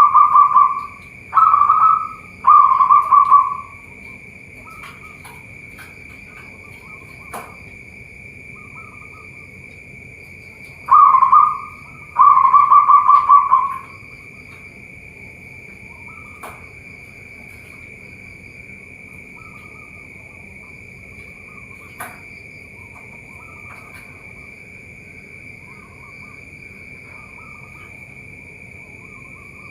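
Zebra doves (perkutut) cooing: phrases of rapid staccato coos at the start and again about eleven seconds in, with fainter calls between, over a steady high-pitched drone.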